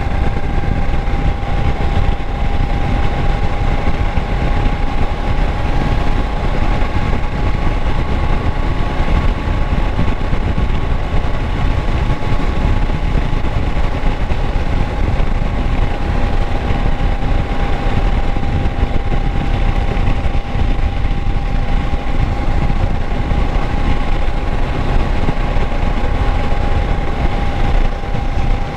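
Kawasaki Versys 650's parallel-twin engine running at a steady, unchanging speed, with a steady whine above the dense low noise.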